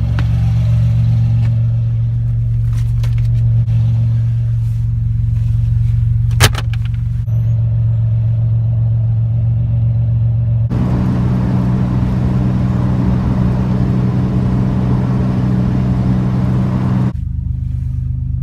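A car running, heard from inside: a steady low drone that keeps one pitch throughout. There is a sharp click about six and a half seconds in, and a louder rushing noise from about eleven to seventeen seconds.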